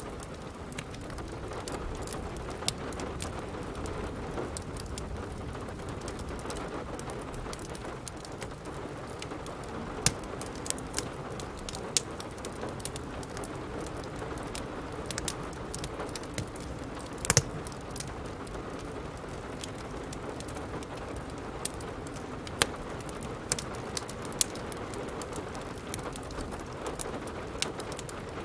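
Steady rain with a crackling wood fire: a continuous wash of rain, and sharp pops and snaps scattered irregularly over it. The loudest is a quick double pop about two thirds of the way through.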